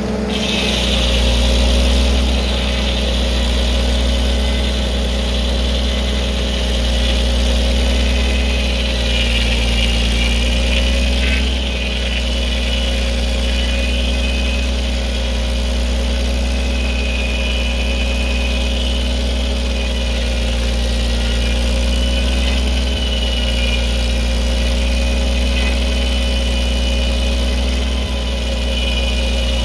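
1952 Farmall H's four-cylinder engine running steadily while driving a sawmill, with a steady high whine above it.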